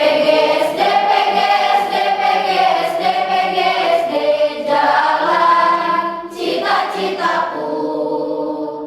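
A choir singing in sustained, held phrases, with a short break about six seconds in before the final phrase.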